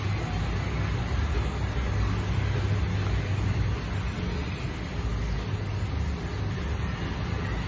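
A motor vehicle running, with a steady low rumble and road noise throughout.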